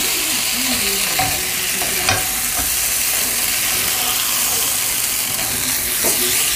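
Potatoes frying in a pan, a steady loud sizzle, with a couple of light knocks.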